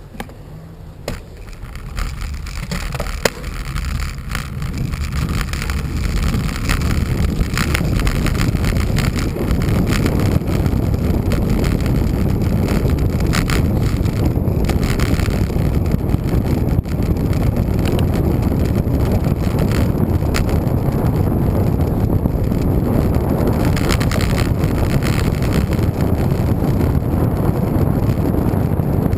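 Wind rushing over a bike-mounted microphone as a road bicycle gets under way, building over the first several seconds as speed rises and then holding at a steady rush. A few light clicks come about a second in.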